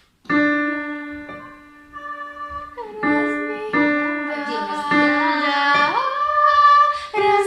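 Instrumental introduction of a song on keyboard: long held notes that change every second or so, the accompaniment a singer is about to sing over.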